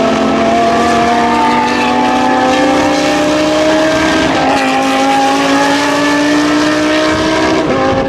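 GT-class race car engine under hard acceleration, its note climbing slowly, then dropping sharply at an upshift about four seconds in and again near the end.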